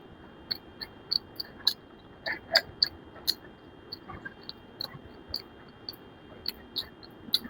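Close-up eating sounds: wet chewing and lip-smacking, with irregular sharp mouth clicks about two to three a second.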